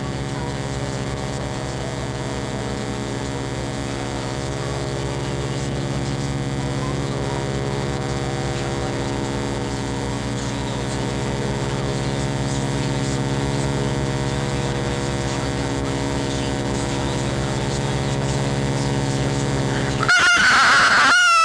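A steady hum with many overtones. In the last second it gives way suddenly to a louder, wavering high-pitched sound.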